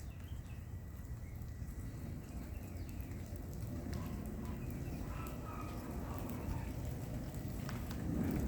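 Low, steady distant rumble, which the owner takes for military jets rather than thunder, with a few faint bird chirps in the middle.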